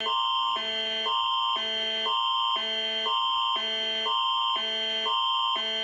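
Canadian Alert Ready emergency attention signal for a tornado warning: a loud electronic alarm with a steady high tone under two chords that alternate about every half second.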